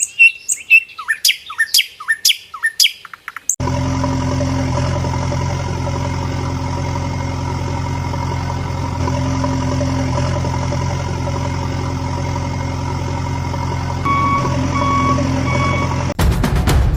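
Birds chirping in a rapid series of short falling calls, then from about three and a half seconds in a truck engine running steadily, with three reversing beeps near the end.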